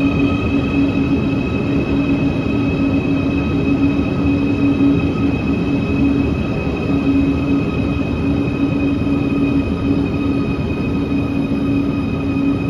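Quito Metro subway train running at a steady speed: a constant rumble with a steady hum and whine that holds one pitch throughout.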